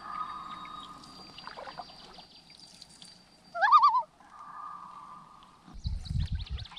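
A bird calling across the water: long, steady wailing notes, and a loud short call about three and a half seconds in that rises and then warbles rapidly. Near the end, low splashing and knocking from the canoe being paddled begins.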